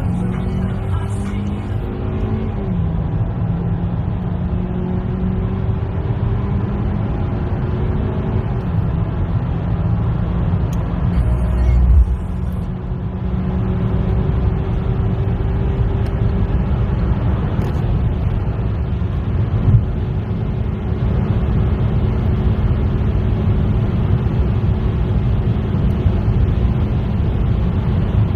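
Hyundai Elantra 2.0 16-valve DOHC four-cylinder engine under full-throttle acceleration through its six-speed automatic: the engine note climbs slowly in each gear and drops at the upshifts, around 2 to 3 seconds in and again near 9 and 12 seconds. The run grows slightly louder as speed builds, with a low thump about twelve seconds in.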